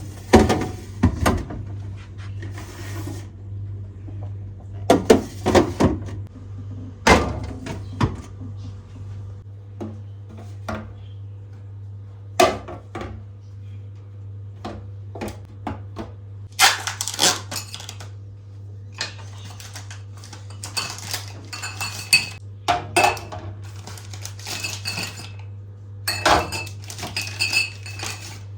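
Kitchen containers and dishes handled and set down: scattered knocks, taps and glassy clinks, some ringing briefly, over a steady low hum.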